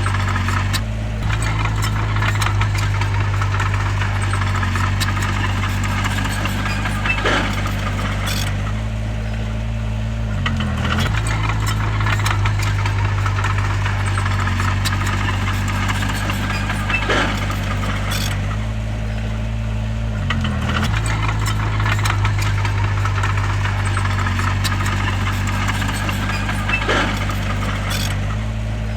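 Bulldozer's diesel engine running steadily under work, with a rattle. The engine pitch dips briefly about every ten seconds, and a short sharp squeak or clank comes a few seconds before each dip.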